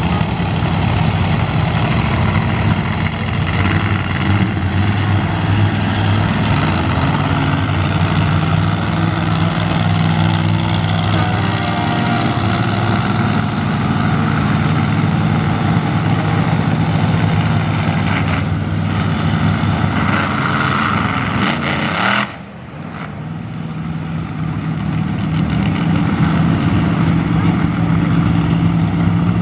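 Monster truck engines running loud and revving after the start-your-engines call. About two-thirds of the way through the sound drops away suddenly, then builds back up.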